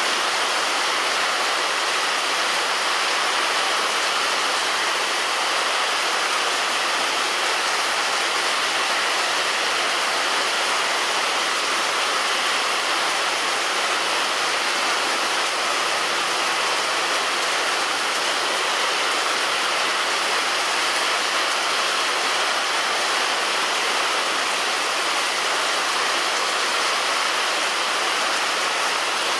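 Heavy rain falling on a roof: a steady, dense hiss of drops without let-up.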